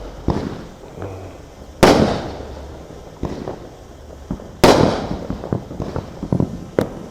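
Consumer fireworks exploding close by: two loud bangs about three seconds apart, each followed by a long echoing rumble, with smaller pops and cracks between them.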